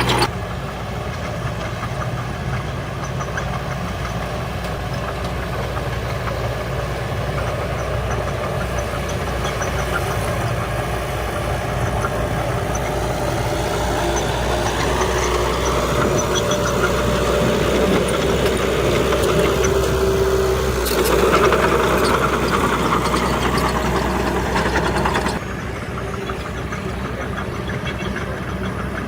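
Heavy earthmoving machinery's diesel engine running steadily. In the middle its pitch rises and then falls as it works harder and eases off. Near the end the sound drops abruptly and changes.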